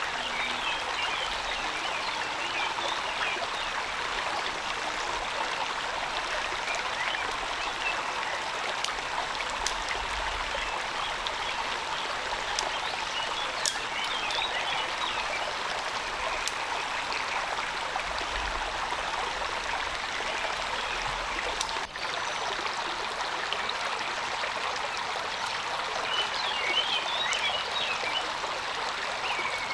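Steady rain falling, an even rushing hiss with scattered drop ticks. Faint chirps come and go, clearest near the start and near the end.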